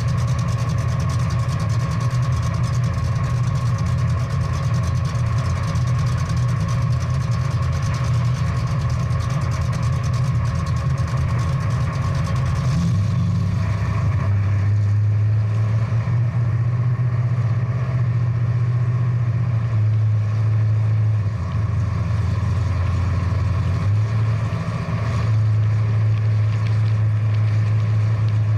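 Big-block V8 muscle-car engine running at low revs, a steady deep rumble that settles to a slightly different pitch about halfway through and eases off briefly twice near the end.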